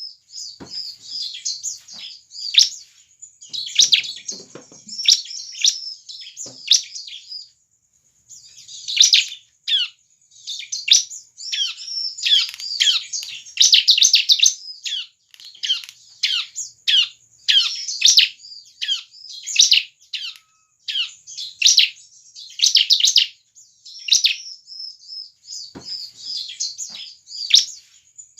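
Ciblek (bar-winged prinia) singing in full voice: rapid, high-pitched chirping phrases made of quick falling notes, broken by short pauses, with one clear gap about eight seconds in.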